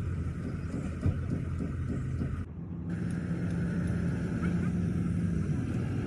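An engine running steadily with a low, even hum. The sound shifts abruptly about two and a half seconds in, after which a steadier single low tone carries on.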